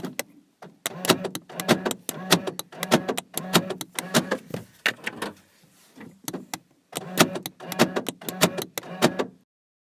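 Rapid sharp clicking in short bursts about every half second, with a low hum under each burst. The clicking pauses briefly a little after halfway and stops just before the end.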